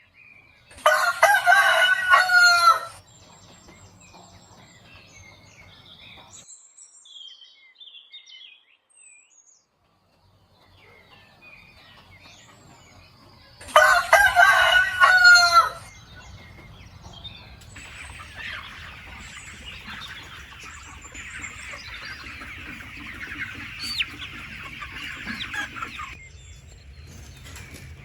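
A rooster crowing twice, each crow about two seconds long, about thirteen seconds apart, with faint bird chirps in between.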